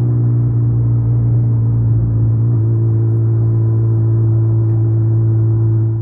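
2019 Suzuki Hayabusa's inline-four engine running at a steady cruise: a constant, loud droning note, with a small change in pitch about two and a half seconds in.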